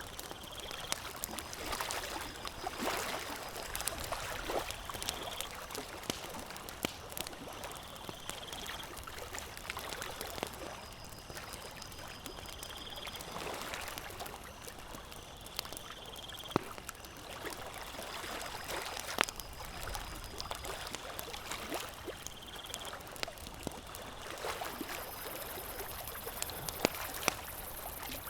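Campfire crackling with irregular sharp pops over a steady wash that sounds like gently moving lake water. A faint short chirp repeats every two to three seconds.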